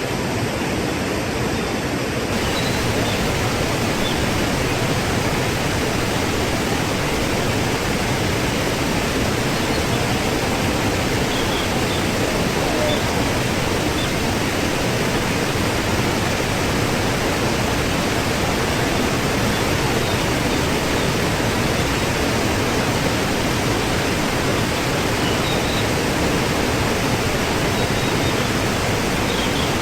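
Waterfall: water falling and splashing in a steady, even rush, with a few faint high chirps over it.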